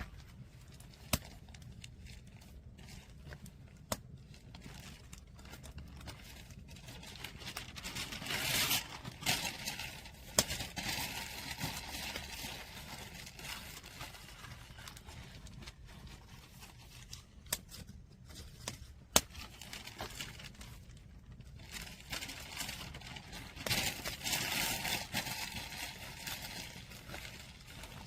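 Firewood fire crackling, with a few sharp single pops and two louder stretches of dense crackling.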